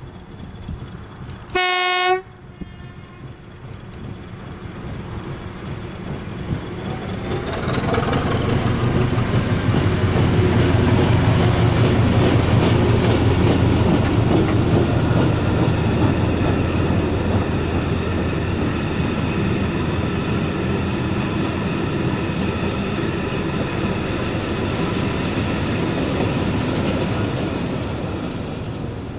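A short, single horn blast from an SM42 diesel-electric locomotive about two seconds in, then the locomotive approaches and passes with its diesel engine running steadily under load, followed by the wagons rolling by with rail clatter.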